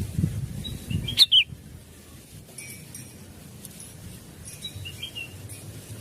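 Blue-winged leafbird (cucak wilis) calling: short, sharp chirps about a second in and a fainter group near five seconds, with a low rustling noise in the first second or so.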